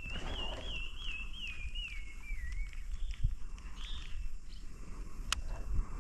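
A bird calls with a wavering whistle that slowly falls in pitch over about two and a half seconds, then gives a shorter call a second later. A single sharp click sounds near the end.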